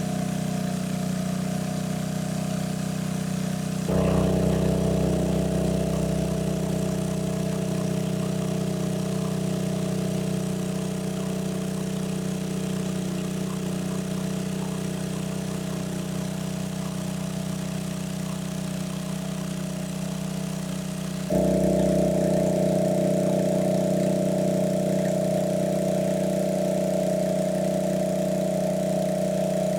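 A small engine running steadily at a constant speed, with the sound jumping abruptly twice, about four seconds in and about two-thirds of the way through.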